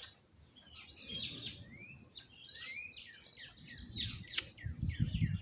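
Several small songbirds chirping and calling over one another in many short, quick rising notes, with a low rumble underneath.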